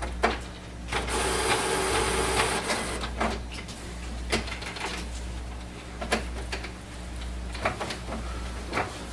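Epson WorkForce WF-7610 inkjet printer running its initial ink charging: its mechanism whirs for about two seconds starting about a second in, then clicks and knocks several times as the carriage and pump work.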